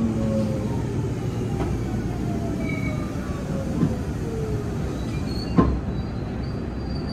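Kintetsu electric train's Hitachi GTO-thyristor VVVF inverter whining in several falling tones as the train slows under braking, over steady wheel and rail running noise. Two sharp knocks come about halfway and near the end, the second the loudest.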